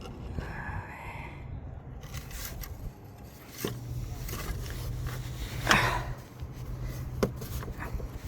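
Scrapes and clicks of metal parts and hand tools being handled over a steady low hum, with a louder scrape a little under six seconds in.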